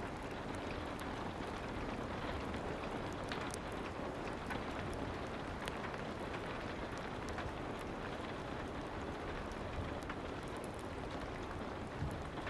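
Soft rain falling steadily, an even hiss of patter with scattered faint clicks throughout.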